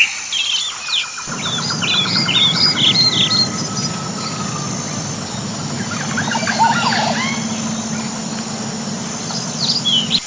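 Several wild birds chirping and calling in quick, short notes: a dense run of high chirps in the first few seconds, then a cluster of lower sweeping calls past the middle. A steady low hum runs underneath from about a second in.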